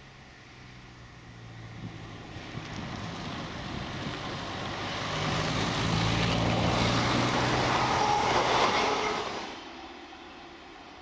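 Class 158 diesel multiple unit approaching and passing: a steady diesel engine hum and the rumble of the train on the rails grow louder, are loudest for a few seconds, then drop off suddenly near the end.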